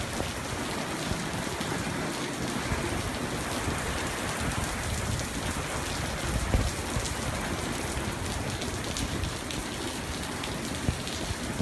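Steady rain falling during a thunderstorm, with scattered drops ticking on a nearby surface. There is a brief low thump about six and a half seconds in.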